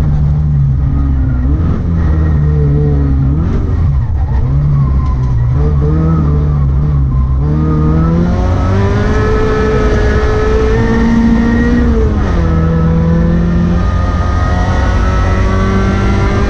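Rally car engine running hard under load, its pitch climbing and dropping as it is revved through the gears, with a clear drop about seven seconds in and another about twelve seconds in.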